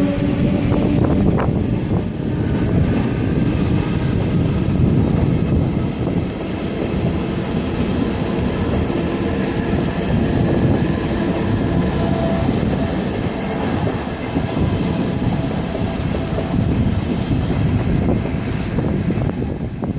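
A train running past on the tracks at close range, a steady loud rumble of wheels and cars, with a pitched whine at the start that fades about a second in.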